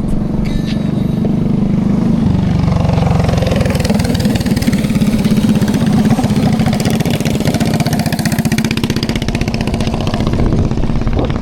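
Small mini-motorcycle engines running and revving loudly close by, rising and falling in pitch, loudest about halfway through.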